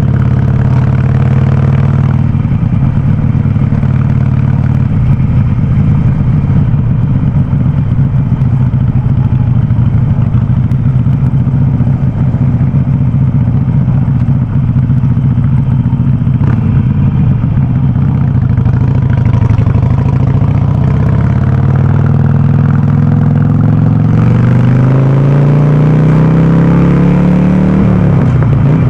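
Harley-Davidson Sportster 48's air-cooled 1200 cc V-twin running loud through an aftermarket VnH exhaust while riding, holding a steady note for most of the time. In the last several seconds it accelerates, the pitch climbing, then drops sharply near the end.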